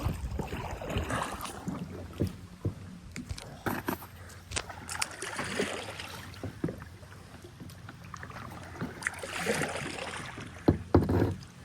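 Kayak paddling: paddle strokes swishing through the water with scattered sharp knocks and clicks, a few louder knocks near the end.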